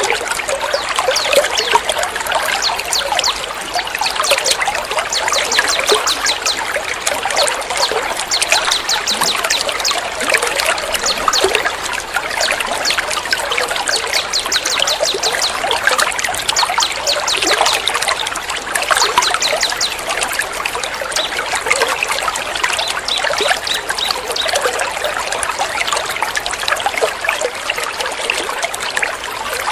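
Trickling, splashing water runs steadily, mixed with dense, rapid, high-pitched bird chirps: a songbird tutoring track with a water therapy sound.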